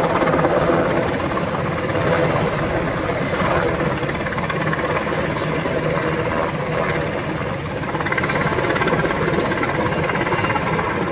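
Helicopter running steadily on the ground, its engine noise easing slightly midway and picking up again near the end.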